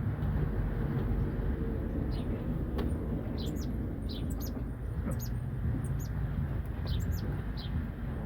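Jilguero finches chirping: short, high, downward-slurred chirps come singly and in quick clusters throughout. Under them runs a steady low rumble, which is the loudest part of the sound.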